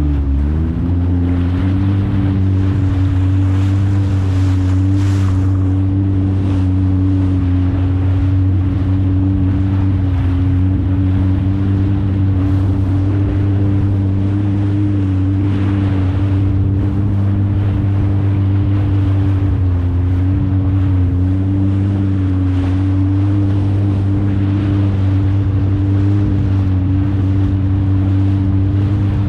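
2023 Kawasaki STX 160 jet ski's four-stroke inline-four engine running at a steady cruising throttle, its pitch dipping slightly about twenty seconds in. Wind and water rush past throughout.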